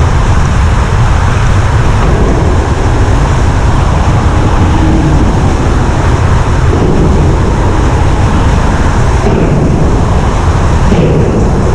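1995 Ford Probe's 2.5-litre KL-DE V6 running loud through a mildly lacking exhaust while the car is driven. The sound is steady, and its tone shifts briefly about nine and eleven seconds in.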